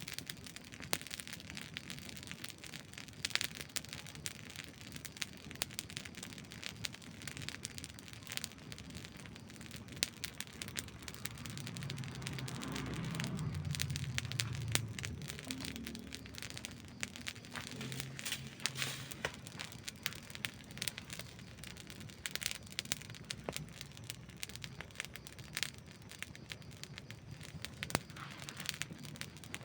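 Wood campfire crackling and popping with many irregular sharp snaps, over a soft hiss. About halfway through, a low rumble swells up for a few seconds and then fades.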